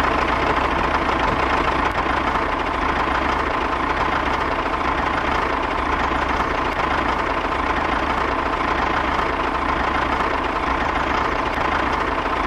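A motor running steadily, a continuous mechanical drone with a steady whine over a low rumble.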